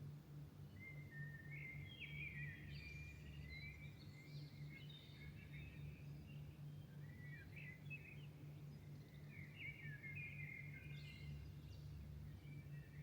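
Songbirds singing at dawn, faint warbled phrases in two runs with a short gap between them, over a steady low hum.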